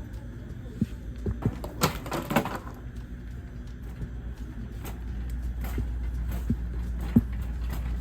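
Goods being picked up and handled off a store shelf: scattered knocks and a brief rattle about two seconds in, over a steady low hum.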